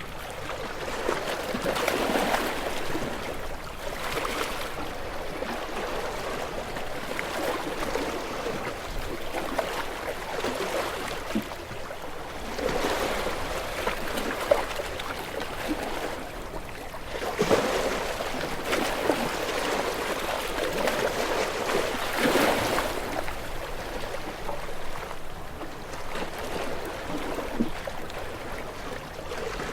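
Gentle waves washing onto a shore, the wash swelling and fading every few seconds.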